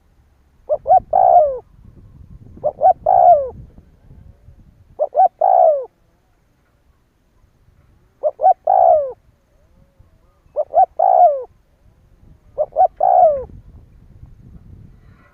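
Spotted dove cooing: six phrases a couple of seconds apart, each two short coos followed by a longer coo that falls in pitch. It is a decoy call of the kind played to provoke rival wild males into answering.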